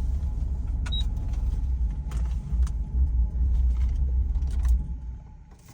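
Car interior rumble while driving: a steady low drone with a few faint clicks. The drone dies away near the end.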